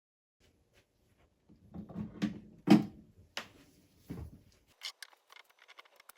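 Small objects being handled on a work surface: a run of knocks and clicks, the loudest about two and three-quarter seconds in, then lighter ticking.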